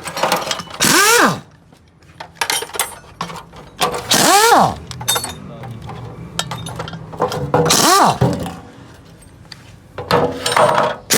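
Impact wrench (impact gun) run in four short bursts, about three and a half seconds apart, each a hammering rattle with a whine that rises and then falls away as the tool spins down, undoing engine bolts. Light metal clinks come between the bursts.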